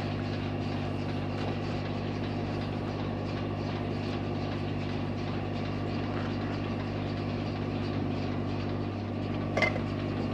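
A machine running at constant speed, giving a steady low hum with a few fixed pitches, and one short knock near the end.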